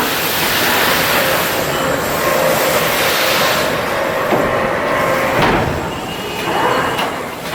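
Steady loud hissing noise of heavy machinery at work, with a few faint steady tones and a single knock about five and a half seconds in.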